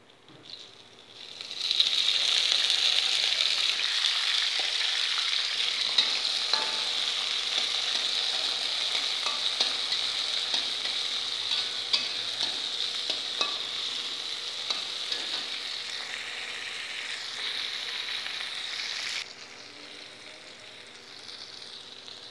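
Chillies, shallots and garlic sizzling loudly in hot oil in a wok. The sizzle starts about a second and a half in as they go into the oil. A metal spatula stirs them, clinking and scraping against the wok, and the sizzle drops off suddenly about 19 seconds in.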